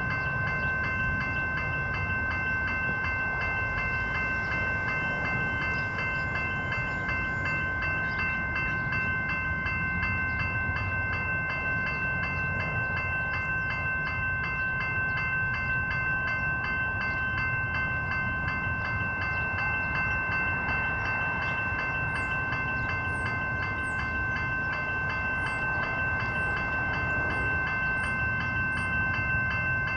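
Railway level crossing's electronic bell ringing continuously during an activation, over a low steady rumble from a train. A handful of short, high chirps come in near the end.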